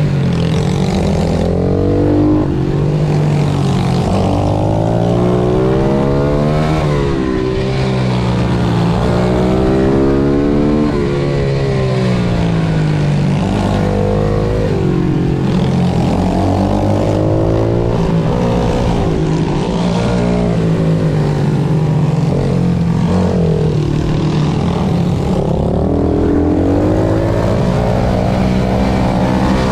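Pit bike engine at racing speed, revving hard. Its pitch climbs under acceleration and drops off again, over and over, as it works through gears and corners.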